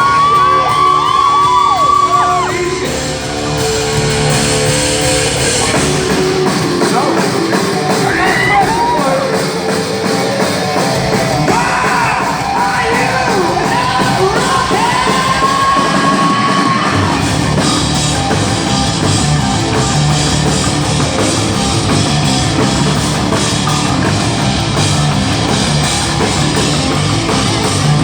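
Live hard rock band playing loudly, a singer holding long notes that bend and glide over the guitars and drums.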